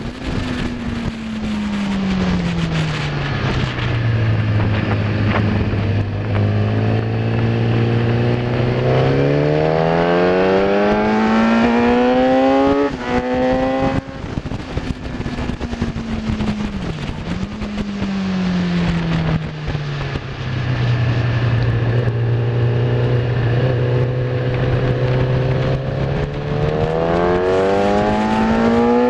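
Kawasaki ZX-10R's inline-four engine at racing speed: the revs fall as the rider brakes and shifts down, hold low for a few seconds, then climb steeply through the gears with quick upshifts. This happens twice, over a constant rush of wind.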